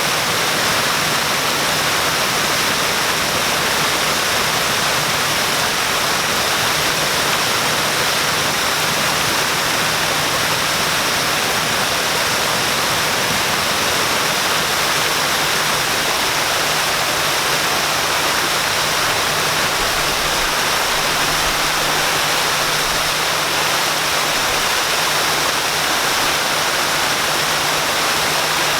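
Waterfall: a steady, unbroken rush of falling water splashing into its pool.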